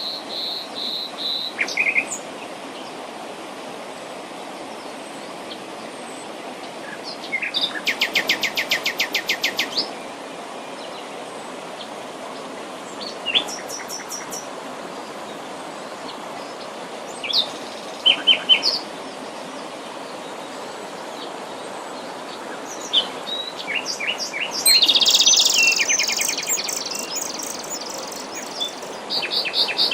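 Wild birds singing and calling: short high chirps, a rapid trill of about two seconds, and a denser burst of song near the end, over a steady rushing background.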